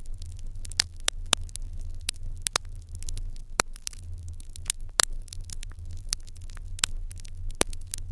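Fire in an irori hearth crackling: irregular sharp pops and snaps, sometimes several close together, over a low steady rumble.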